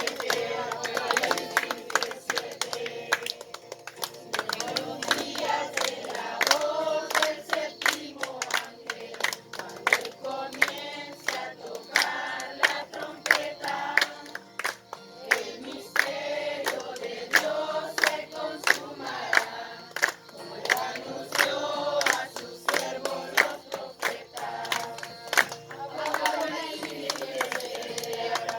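Several voices singing together, with frequent sharp claps.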